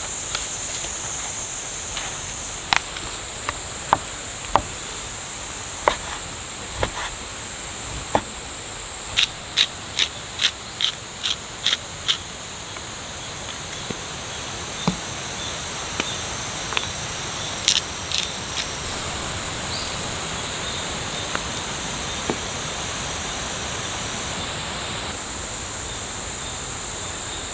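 Insects chirring steadily at a high pitch, with scattered sharp clicks and taps over it, including a quick run of about eight evenly spaced taps in the middle.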